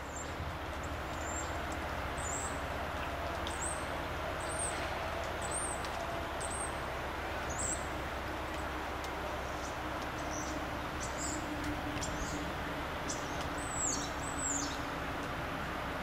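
Thin, high-pitched chirps of a small bird, short downward-slurred notes repeated about once a second, the two loudest near the end, over a steady low background hum.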